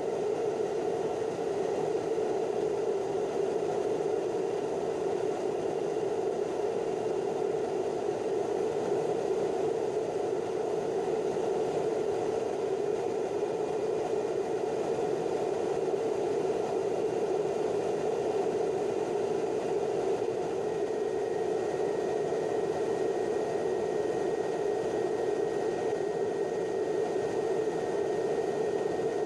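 Steady aircraft cabin noise in flight: the constant drone of engines and rushing air heard from inside the plane. A faint thin whine joins about two-thirds of the way through.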